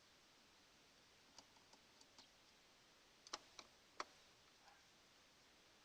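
Scattered light clicks and taps of hand tools and small metal parts being handled while a carburettor is taken apart, the two sharpest about three and a half and four seconds in, over near silence.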